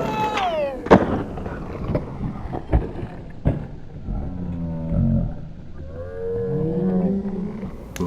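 A skateboard slide screeching and falling in pitch, ending in a sharp board clack just under a second in, with a few more clacks after. From about four seconds, low, drawn-out wordless shouts and hollers.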